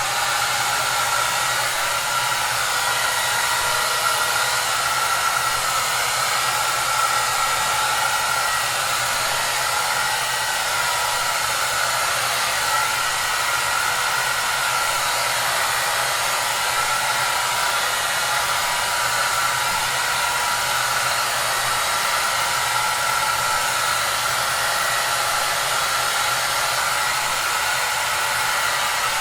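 Hair dryer running steadily: an even rush of blown air with a steady high tone and a low hum in it, used as white noise for sleep.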